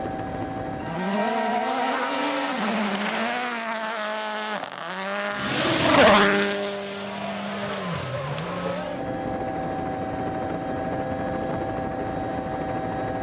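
Rally car passing at speed: the engine revs climb and drop in steps through the gears, loudest about six seconds in as it goes by with a rush of tyre and gravel noise. The engine fades by about nine seconds in, leaving a steady drone.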